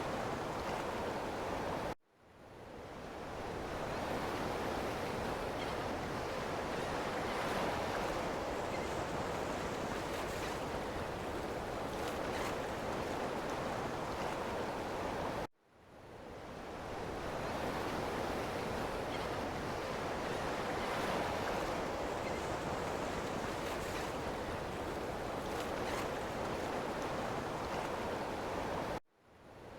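Ocean surf washing on a shore, a steady wash of waves. Three times, about every 13 seconds, the sound cuts out abruptly and fades back in over a second or two.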